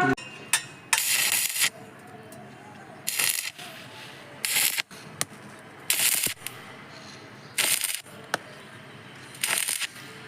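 Welding arc on a 1.5-inch stainless steel pillar, struck in six short bursts of hissing crackle about a second and a half apart, with a few sharp clicks between them.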